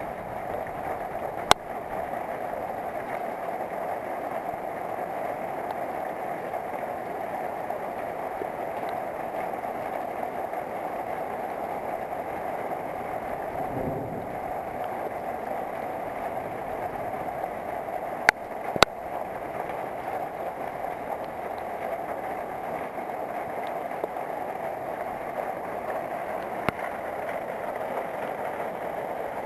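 Steady rain falling during a night thunderstorm, an even hiss, with a few sharp clicks, two of them close together past the middle.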